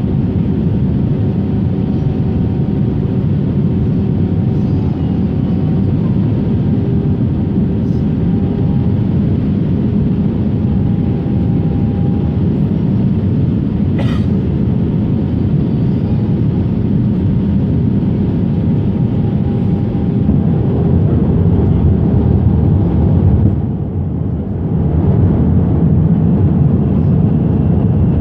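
Aircraft cabin noise: a steady, loud rumble of engines and airflow heard from inside the passenger cabin, with a faint steady hum on top. A single sharp click sounds about halfway through, and the noise swells slightly later on, dipping briefly near the end.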